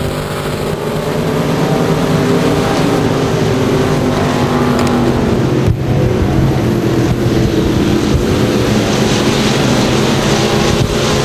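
IMCA stock car V8 engines running at racing speed, a loud steady drone that wavers only slightly in pitch.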